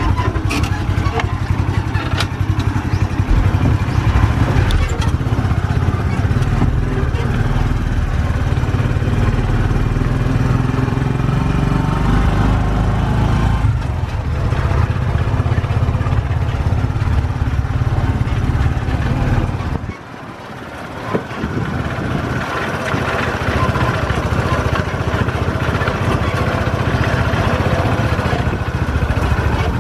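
Motorcycle engine of a Philippine tricycle running while the tricycle is on the move, heard from inside the sidecar cab. The sound drops away for a moment about two-thirds of the way through, then picks up again.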